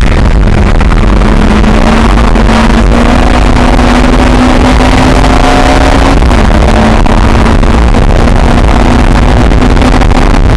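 Lotus sports car's engine running hard under load, heard loud from the open cockpit over heavy wind noise on the microphone. The engine note climbs slowly, drops once about six seconds in at an upshift, then holds steady.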